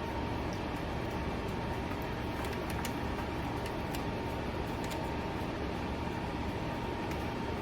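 Steady low background hum with a thin, steady high tone running through it, and a few faint, light clicks.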